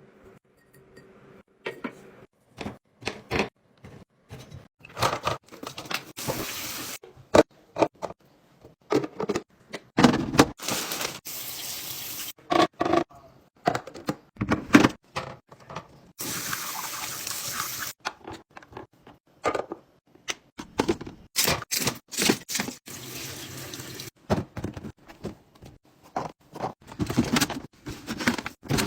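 Fridge restocking: containers and packaged items set down and knocked into place, with many clicks and clunks of plastic and glass. Several one- to two-second stretches of liquid running or pouring come in between, as when drinks or water are filled into fridge containers.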